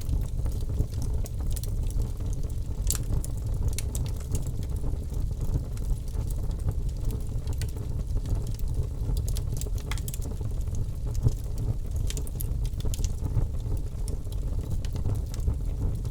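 Campfire burning: a steady low rumble with scattered sharp crackles and pops throughout.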